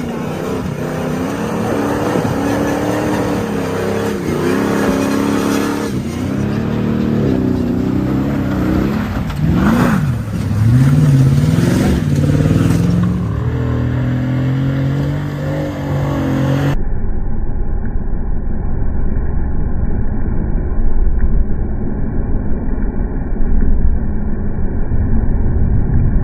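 A truck engine revving, its pitch rising and falling repeatedly. About two-thirds through, the sound cuts to a muffled, dull recording of a steady low engine rumble.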